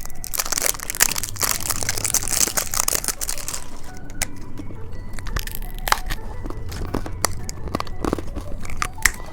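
Plastic candy wrapping crinkling and tearing for the first few seconds, followed by scattered light clicks and taps of handled candy and packaging.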